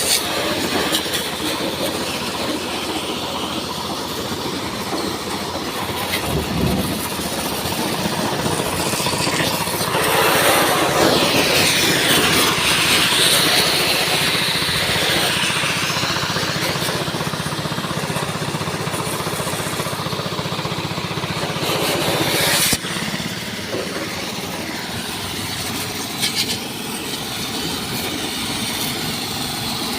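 Heavy machinery running steadily with mechanical clatter. It grows louder for several seconds in the middle with a rising-and-falling squeal, then drops off sharply about three quarters of the way through.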